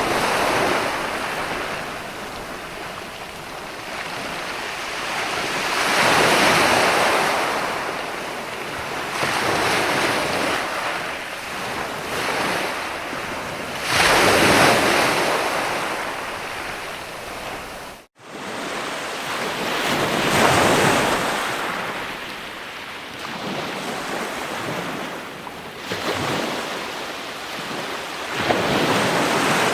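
Ocean surf: waves breaking and washing in, swelling and ebbing in a slow rhythm every several seconds. The sound cuts out for an instant about two-thirds of the way through.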